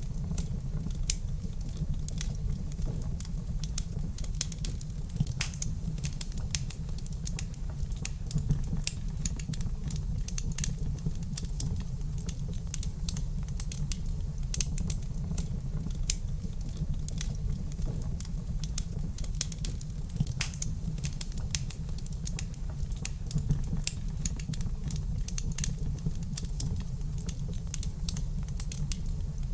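Wood fire burning in a fireplace: a continuous low rumble of flames with many small, irregular crackles and pops throughout.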